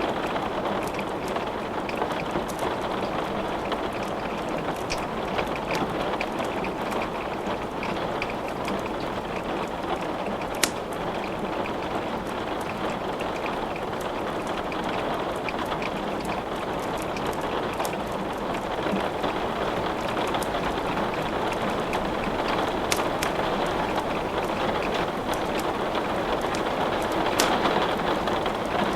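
Steady rain hissing, mixed with the scattered sharp crackles and pops of wood burning in a fireplace; one louder pop comes about ten seconds in.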